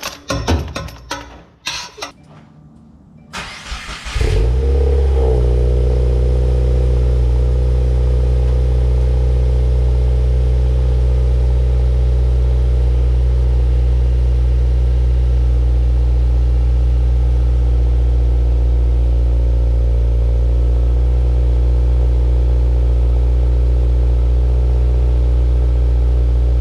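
A few sharp clicks and knocks, then the turbocharged 2.0-litre flat-four of a 2019 Subaru WRX is cranked and starts about four seconds in, settling into a loud, steady idle through a Cobb resonated J-pipe and Invidia Q300 cat-back exhaust.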